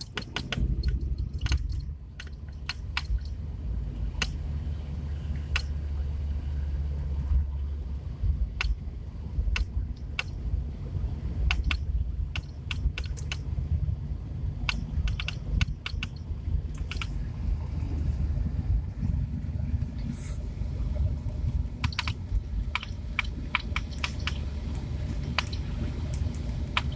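Lada Priora driving, with a steady low road rumble and frequent irregular sharp knocks and rattles: the knocking the car has developed.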